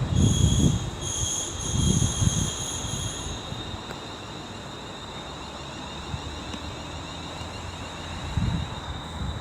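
Class 350 electric multiple unit braking into the platform to stop, with a high-pitched squeal for the first three seconds or so and a low rumble underneath. After that it settles to a low hum with a faint steady whine as it comes to a stand.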